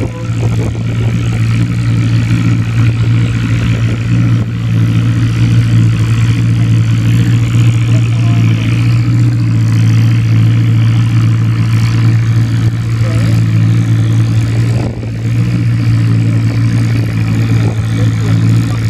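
Antique tractor engine running loud and steady, with a brief dip about three-quarters of the way through.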